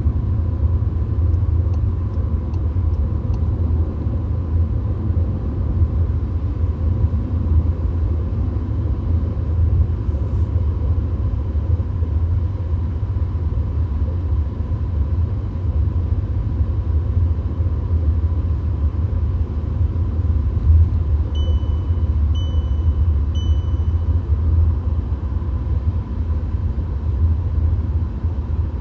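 Steady low rumble of road and engine noise inside a VW Golf's cabin while cruising at motorway speed, with a faint steady whine above it. About three quarters of the way through, three short high beeps sound about a second apart.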